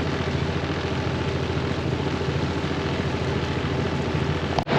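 Small boat's motor running steadily underway, cutting out for an instant near the end.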